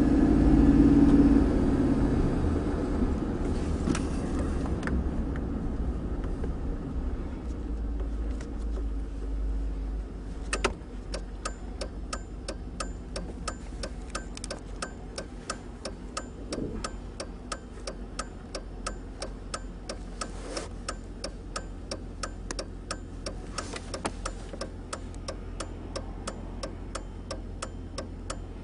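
Pickup truck engine running and easing off as the truck slows, then idling low under an even, steady clicking of the flasher relay, about two to three ticks a second. A single thump comes just before the clicking starts.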